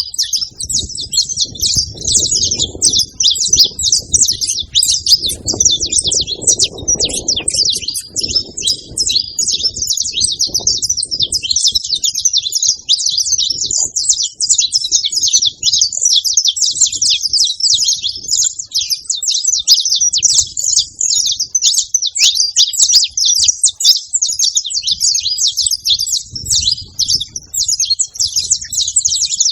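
Saffron finches chirping and singing in a rapid, unbroken stream of high notes, with a low rumble underneath for the first several seconds and again briefly near the end.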